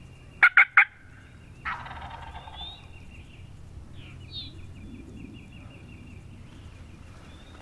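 Three sharp, very loud calls just after the start, then a wild turkey gobbler gobbling once, a rattling call about a second long. Those three sharp calls are the loudest sound.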